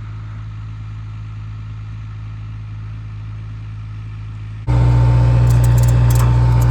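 Steady engine drone from a running vehicle. About two-thirds of the way through it jumps abruptly to a much louder drone with a thin steady whine and a few high ticks.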